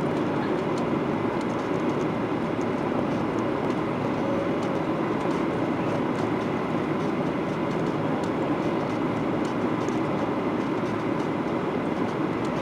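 Steady rushing cabin noise inside a Boeing 737-800: engine and airflow noise from its CFM56-7B turbofans, even in level, with a faint steady whine over it.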